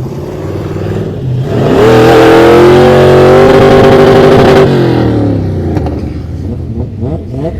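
Toyota FJ Cruiser's V6 engine revved hard: the pitch climbs over about half a second, is held at high revs for nearly three seconds, then drops back, with shorter rev rises and falls near the end.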